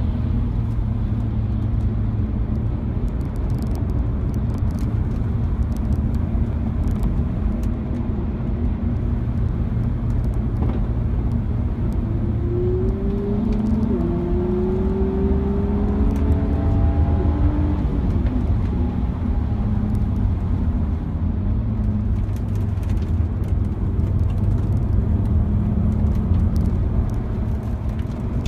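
BMW E46 330Ci's 3.0-litre straight-six running hard on track, heard from inside the cabin along with road and wind noise. About halfway through, a rising engine note climbs for several seconds.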